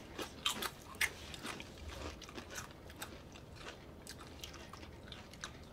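A person chewing a mouthful of spicy Takis rolled tortilla chips: irregular crisp crunches, a few sharper ones in the first second, then softer chewing.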